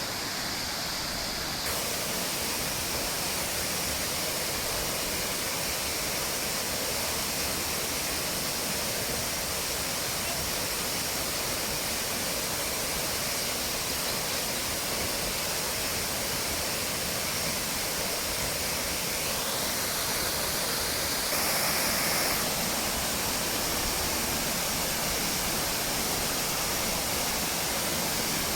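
Waterfall rushing steadily, an even noise of falling water, with a brief louder stretch a little past two-thirds through.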